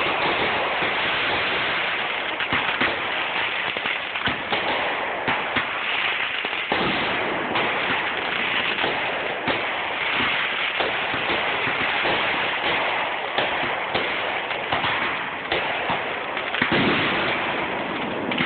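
Aerial fireworks going off in quick succession: a dense, unbroken run of pops and crackles, with a louder bang near the end.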